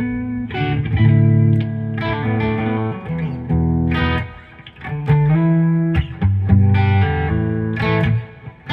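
Donner Telecaster-style electric guitar with a Gibson 490R and a DiMarzio pickup, played through an amp with light overdrive: picked chords and single-note phrases, with a brief pause about four and a half seconds in.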